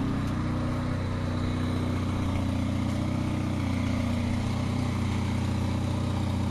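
Honda engine idling steadily while it warms up just after a cold start on choke.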